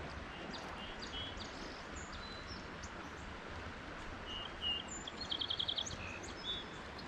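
Several wild birds chirping and calling over a steady background hiss, with a quick trill of rapid repeated notes a little after five seconds in.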